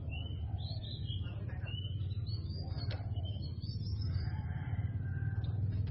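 White-rumped shama (murai batu) singing a varied run of quick whistled phrases, rising and falling in pitch, over a steady low hum.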